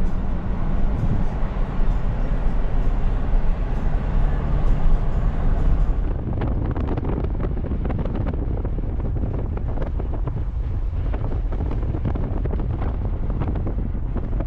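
Car driving along a road, with rumbling road noise and wind buffeting the microphone. About six seconds in the hiss drops and a rapid patter of small ticks sets in.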